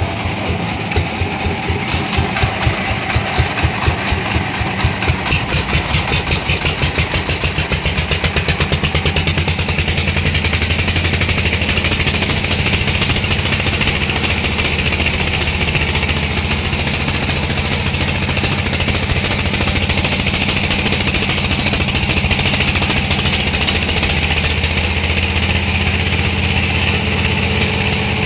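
An engine speeding up, its beats at first slow and separate, quickening over the first eight seconds or so, then running steadily.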